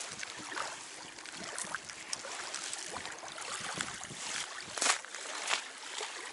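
Water sloshing and splashing at the river's edge as a snagged line is hauled in, with scattered small clicks and one louder hit about five seconds in.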